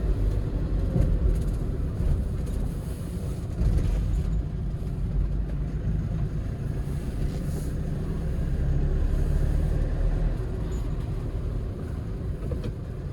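Hyundai Porter II truck driving in fourth gear, a steady engine and road rumble heard from inside the cab.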